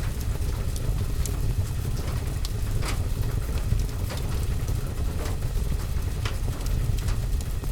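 Wood fire crackling with scattered sharp pops, over a steady low rumble of rain on a window and roof.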